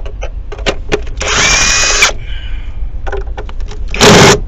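Power tool with a deep 10 mm socket running out the Jeep 3.7 V6's intake manifold bolts. A few light metal clicks of the socket going on are followed by a whirring burst of about a second whose whine rises. A shorter, louder burst comes near the end.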